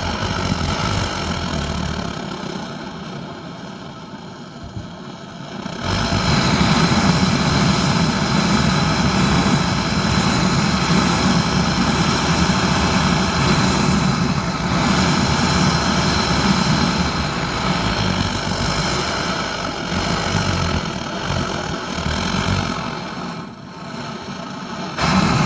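Swiss army petrol vaporising pressure burner running with a steady rushing flame noise. It gets louder about six seconds in.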